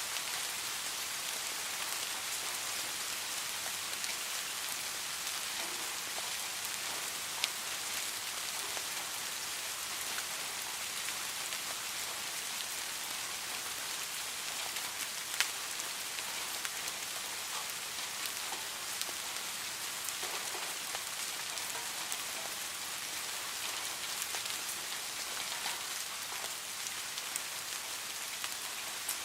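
Steady rain falling on a hard surface, an even dense patter, with a few sharper single ticks standing out, the loudest about halfway through.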